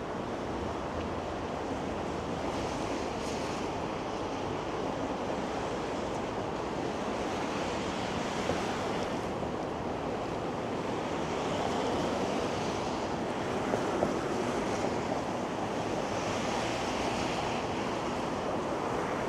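Steady roar of traffic on a wide, busy city avenue, with cars passing every few seconds.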